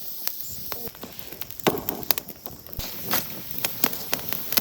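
Small stick campfire crackling, with irregular sharp pops and snaps about one or two a second.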